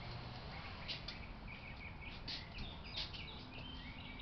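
Birds chirping in quick, short calls over a quiet background; a faint steady hum comes in near the end.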